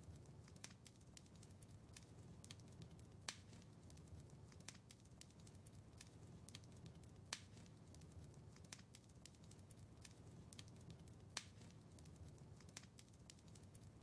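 Wood fire crackling quietly in a fireplace: scattered sharp pops and snaps at irregular intervals over a low steady rumble, with three louder pops about three, seven and eleven seconds in.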